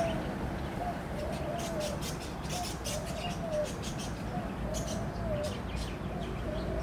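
A dove cooing over and over, each phrase a short note followed by a longer rising-and-falling coo, about one phrase every second and a half. A steady low rumble runs underneath.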